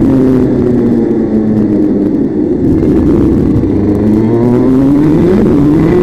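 Vehicle engine running loud and close. Its pitch drops over the first couple of seconds, then climbs again about four seconds in as it picks up speed.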